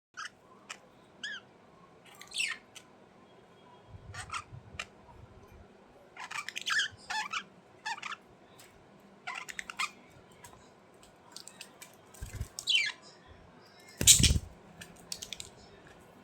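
Budgerigars chirping and squawking in short, scattered calls. A few dull knocks come in between, and a loud thump about fourteen seconds in.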